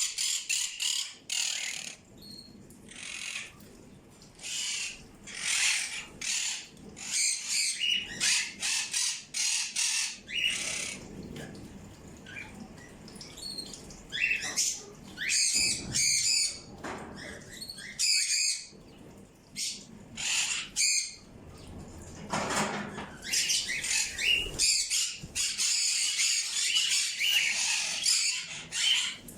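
Several birds chirping and squawking, with many short, high calls overlapping in quick succession.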